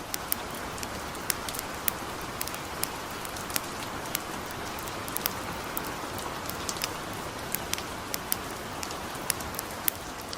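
Steady patter of light rain with a campfire crackling over it: irregular sharp pops, a few each second.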